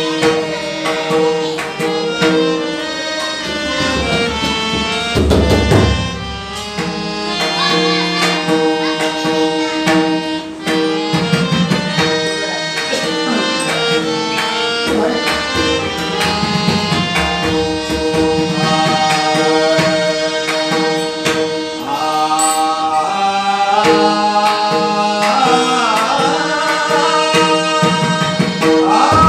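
Marathi devotional bhajan music: a harmonium plays sustained melody and drone notes over tabla and hand percussion, with a singing voice in places.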